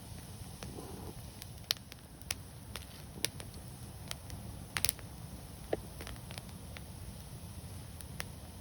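Wood fire burning, with irregular sharp crackles and pops over a low steady rumble of flames; a small cluster of pops comes a little before the middle.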